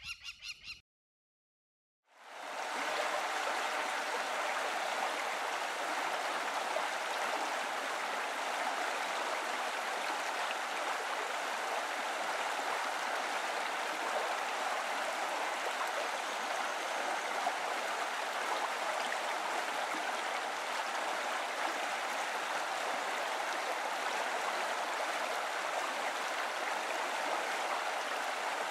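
Steady, even rushing noise like running water, fading in quickly about two seconds in after a brief pulsing pitched sound cuts off.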